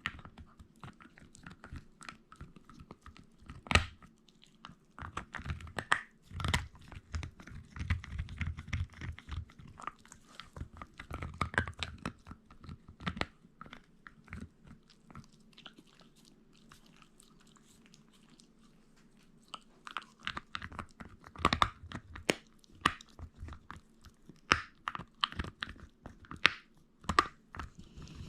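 Shiba Inu chewing meat hard, with loud, irregular crunches and bites. The crunching thins out about halfway through and then picks up again.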